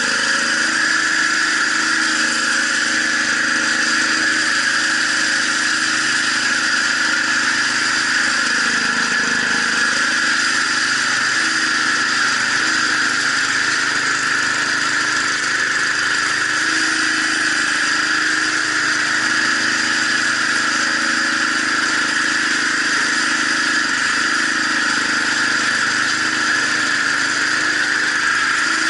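Gas snowblower engine, already warmed up, running steadily as the machine is driven into a hip-deep snow drift.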